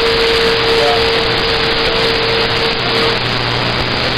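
CB radio receiver hissing with static on an open channel, with one steady whistle-like tone over the hiss that stops about three seconds in.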